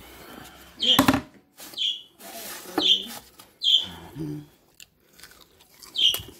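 A bird chirping over and over, short falling chirps about once a second. In between comes crunching and crackling as a crispy breaded fish stick is handled and broken open.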